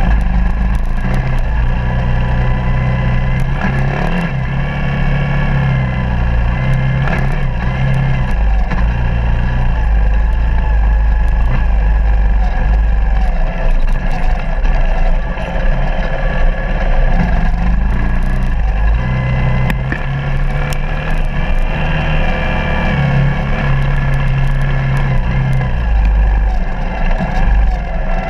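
Suzuki DR200 dual-sport motorcycle's air-cooled single-cylinder four-stroke engine running under way on a dirt trail, the revs rising and falling repeatedly with throttle and gear changes.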